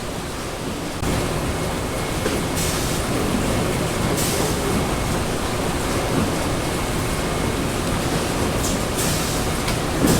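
Steady rumbling din of printing-plant machinery, getting louder about a second in, with a few brief hissing sounds over it.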